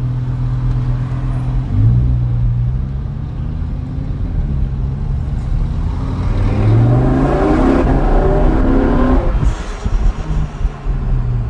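Lamborghini Huracán STO's naturally aspirated 5.2-litre V10 through an Innotech aftermarket exhaust, heard from inside the cabin. It runs low and steady, gets a short rev about two seconds in, then accelerates with a rising pitch for about three seconds from around six seconds in. It cuts off suddenly, followed by a short run of sharp pops from the exhaust as the throttle closes.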